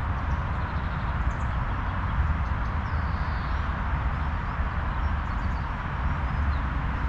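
Steady wind outdoors with a low rumble and a hiss in the leaves, and a few faint, brief bird calls high above it.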